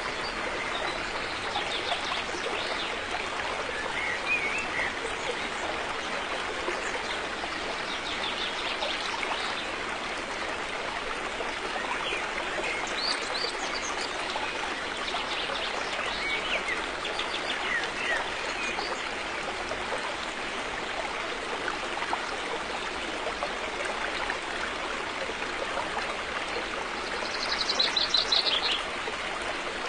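River water flowing steadily, with birds chirping now and then over it and one louder, rapid bird trill near the end.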